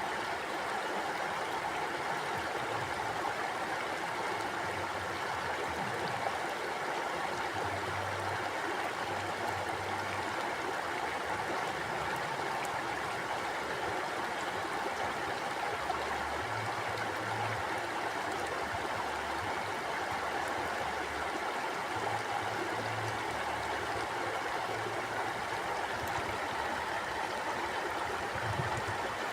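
Mountain stream flowing steadily over rocks, an even rushing wash of water with a gurgling undertone.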